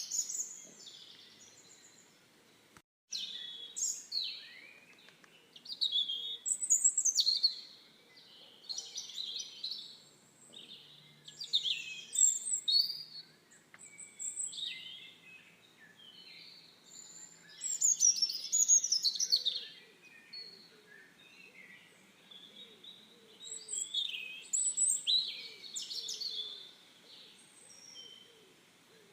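Songbirds chirping and singing in short, high phrases every second or two, with the sound briefly cutting out about three seconds in.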